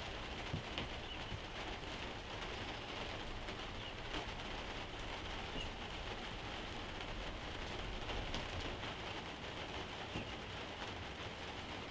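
Steady rain falling, an even patter throughout.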